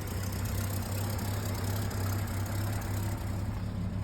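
1950s Chevrolet school bus engine idling steadily, with an exhaust leak that the owner has not yet fixed.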